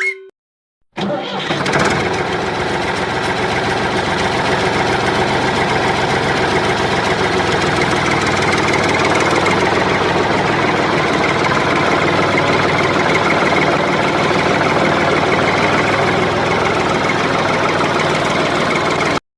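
Tractor engine running steadily. It starts about a second in and cuts off abruptly near the end.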